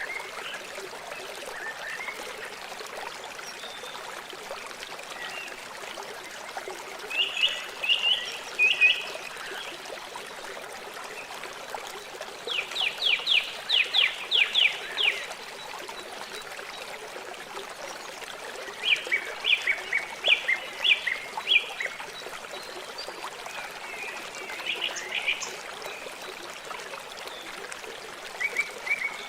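River water flowing steadily, with a bird calling over it several times in short series of quick, repeated high notes.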